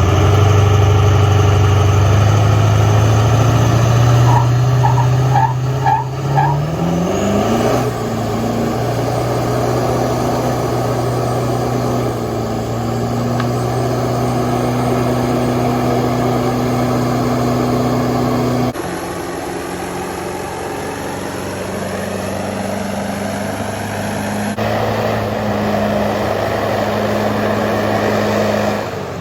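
Pickup truck doing a burnout: the engine is held at high revs with the tyres spinning on the pavement. The engine pitch climbs over the first several seconds and then holds steady, with sudden jumps in the sound later on where the footage is cut.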